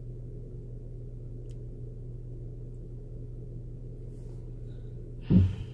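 A steady low hum with faint background noise, broken by a brief louder sound near the end.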